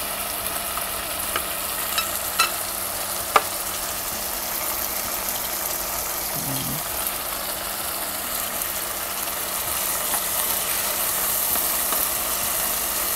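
Tuna chunks, tomato and onion sizzling in olive oil in a nonstick wok, a steady hiss with a few sharp ticks in the first few seconds. A wooden spatula starts stirring near the end.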